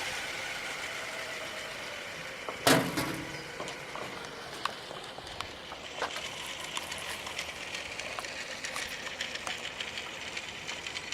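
The Outrage Fusion 50 RC helicopter winding down after its engine stops: a fading whir, one sharp knock about three seconds in, then scattered light clicks and ticks.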